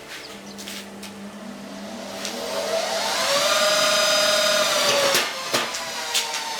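Handheld grinder's electric motor spinning up with a rising whine, then running at a steady high pitch that drops about five seconds in, followed by a few sharp clicks.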